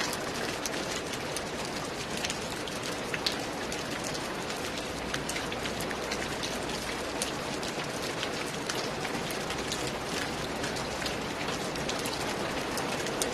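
Steady rain falling, an even hiss with many sharp individual drop ticks standing out irregularly.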